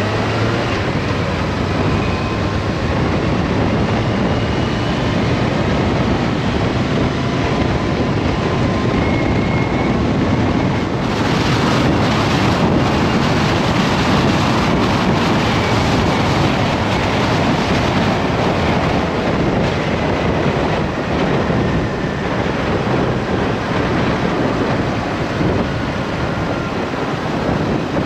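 Steady wind rush over a motorcycle and its rider at motorway speed, with the engine faintly underneath; the wind grows a little brighter about halfway through.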